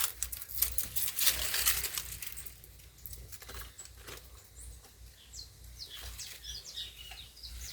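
Footsteps rustling and crackling through dry leaves and brush for the first three seconds or so, then a few faint, short bird chirps.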